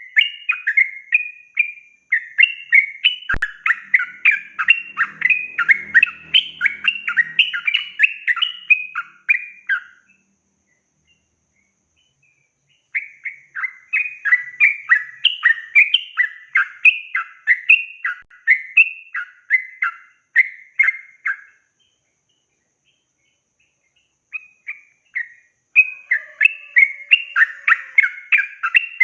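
Yellow-vented bulbul singing long, rapid chattering phrases of about three notes a second. There are three long runs, broken by silent pauses of two to three seconds.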